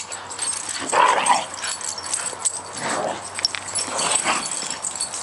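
Dog making raspy, grumbling 'gremlin noises': three short rough vocalizations, about a second in, near three seconds and again just after four.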